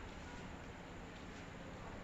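Faint background ambience: a low, steady hiss and hum with no distinct events.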